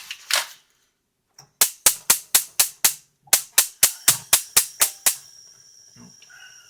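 OXO mini chopper's spring-loaded plunger being struck down again and again to chop coffee beans: sharp clacks, about four a second, in two runs with a short pause near the middle.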